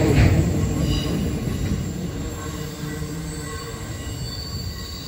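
Container freight train rolling past and away, its wagon wheels on the rails fading steadily, with thin high wheel squeals over the dying rumble.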